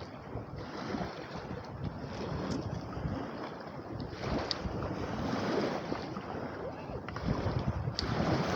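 Gusty wind buffeting the microphone, with lake waves washing against the shore.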